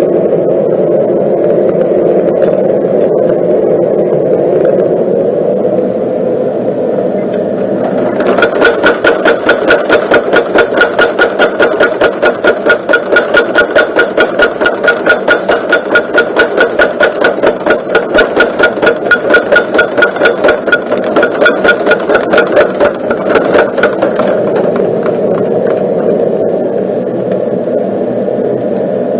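Electric motor of a homemade power forging hammer running steadily. Then, for most of the middle, the hammer strikes in a fast, even rhythm of about four ringing blows a second before stopping and leaving only the motor running.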